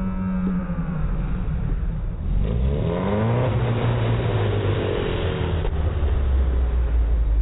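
Motorcycle engine revving. The revs sink at first, then climb sharply about two and a half seconds in and hold high for about two seconds. They drop off abruptly, leaving a low rumble near the end.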